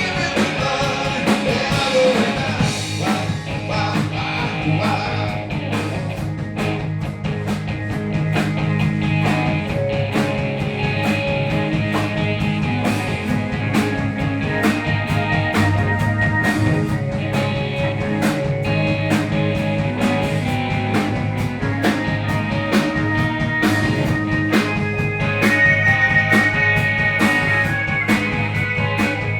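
Live blues-rock band playing an up-tempo song: electric guitar and bass over a steady drum beat.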